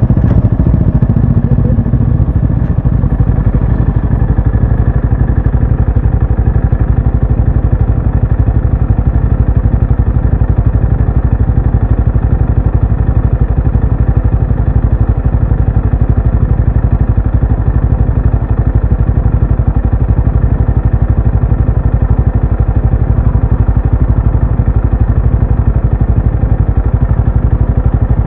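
Benelli Imperiale 400's single-cylinder engine exhaust running at a steady engine speed, a dense, even low thumping pulse with no change in pitch once it settles in the first couple of seconds.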